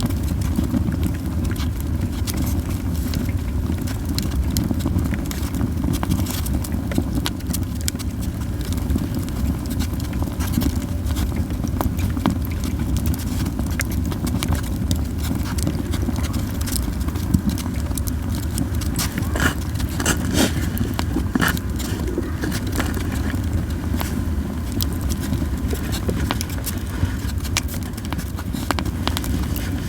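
Japanese yew wood burning in a campfire, crackling with many small irregular pops over a steady low rumble, with a few louder pops a little past the middle.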